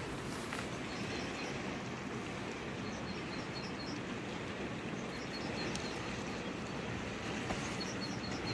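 Steady rush of a fast-flowing river, with a small bird giving short runs of high chirps now and then.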